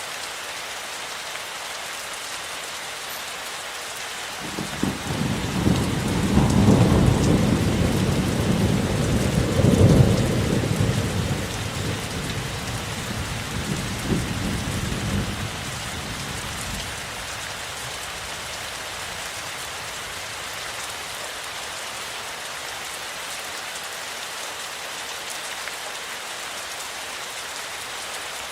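Steady rain falling, with a peal of thunder rolling in about four seconds in, swelling twice and fading away over about twelve seconds.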